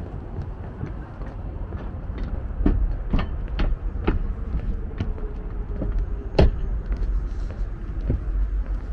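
Footsteps on city pavement at a steady walking pace, about two a second, over a low steady rumble.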